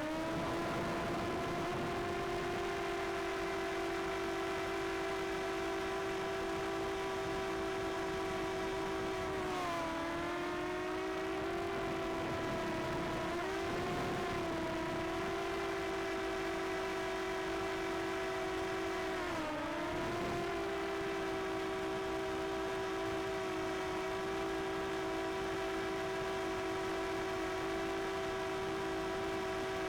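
Small quadcopter drone's propellers humming steadily, the pitch dipping briefly three times as the motors change speed.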